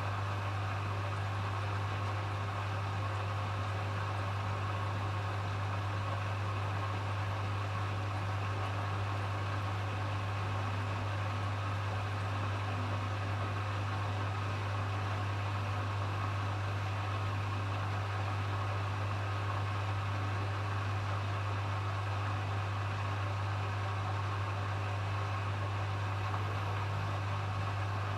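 Hoover HW411AMC washing machine on its final spin, the drum and motor running at a constant speed with a steady low hum over an even whirring hiss.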